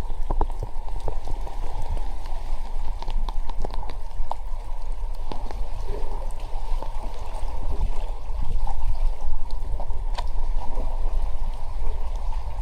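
Moving water rushing and gurgling steadily, with scattered small clicks and splashes over a low rumble.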